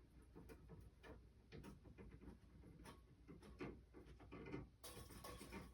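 Near silence with faint, scattered light ticks and clicks, as of a cordless aluminum mini blind's slats being adjusted.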